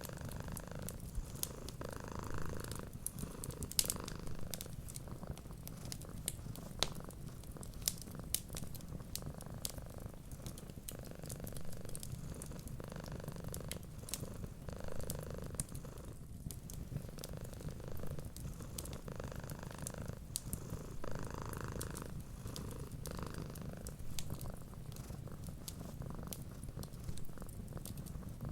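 Cat purring steadily in slow, rhythmic cycles, with scattered sharp crackles and pops of a wood fire throughout.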